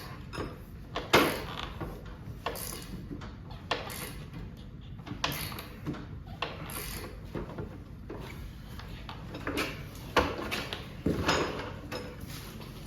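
Irregular knocks, clicks and rattles of tools and metal hardware being handled, with the loudest knock about a second in and another cluster near the end.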